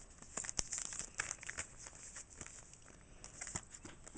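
Crinkling and rustling of Pokémon trading cards, plastic card sleeves and foil booster pack wrappers being handled, with irregular small clicks, busiest in the first second and a half and again near the end.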